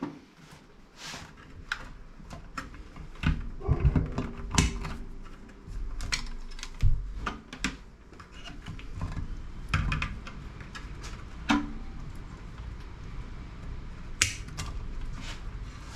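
Irregular clicks, taps and knocks of tools and plastic and metal parts being handled while a CRT monitor is taken apart, with a few heavier knocks about 4 and 7 seconds in.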